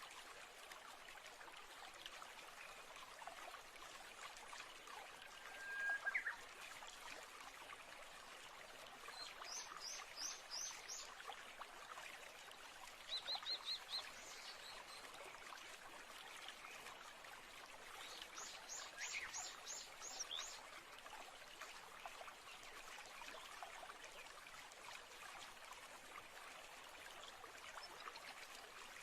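Birds calling over a faint steady rush of running water: a whistled note that rises at its end about six seconds in, then several quick runs of short high chirps through the middle.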